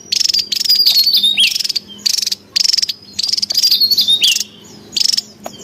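Javan tesia calling: loud, rapid buzzy trills in short bursts about twice a second, mixed with clear whistled notes, some dropping sharply in pitch.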